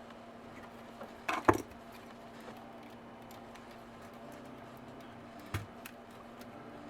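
Small clicks and knocks from hands and tools handling a MiniDisc deck during repair: a short cluster about a second and a half in, and one more click later. A faint steady hum runs underneath.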